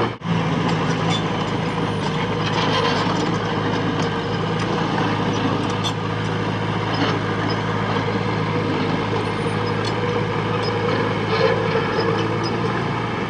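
Diesel engine of heavy earthmoving machinery running steadily, with scattered short metallic clanks and knocks.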